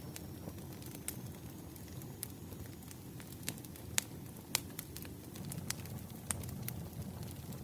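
Wood fire crackling: irregular sharp pops and snaps, a couple of louder ones near the middle, over a steady low rumble.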